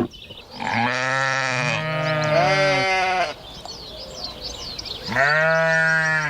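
Livestock bleating: long, arching calls through the first half, then another about five seconds in, with faint bird chirps above.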